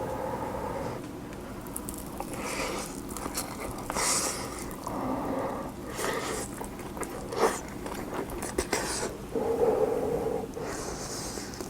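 Close-miked eating of cheese-and-egg kimchi fried rice: wet chewing and mouth sounds, with scrapes and a few sharp clicks. The loudest click comes about seven and a half seconds in.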